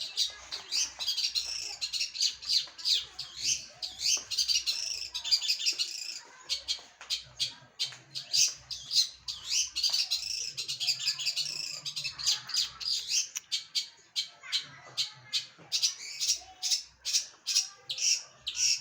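Long-tailed shrike (cendet) in full song: long runs of rapid, high, scratchy chattering notes with a couple of short breaks.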